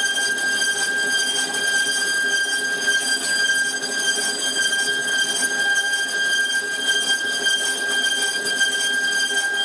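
A high-speed electric woodworking power tool running steadily with a high, even whine and no change in speed.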